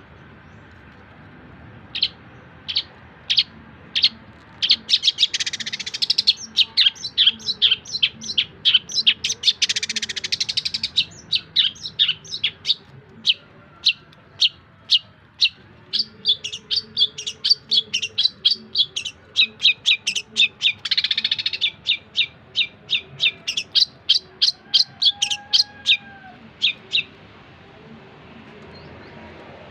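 Long-tailed shrike (cendet) singing a long run of sharp, high chirps, at times very rapid, mixed with a few harsh rasping notes; the song stops a few seconds before the end.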